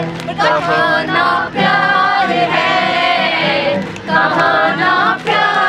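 A song with several singing voices over a steady musical beat.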